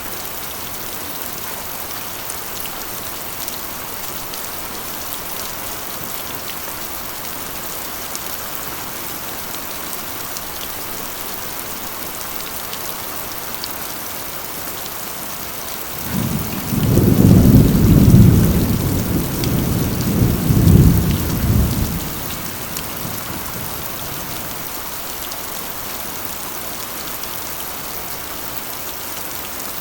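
Steady heavy rain falling on a corrugated iron roof. About halfway through, a low rumble of thunder rises, swells twice and fades out some six seconds later.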